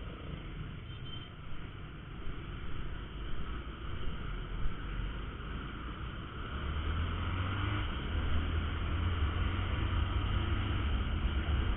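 Honda Verza 150 motorcycle on the move, its single-cylinder engine running under a steady hiss of road noise; the engine grows louder about halfway through.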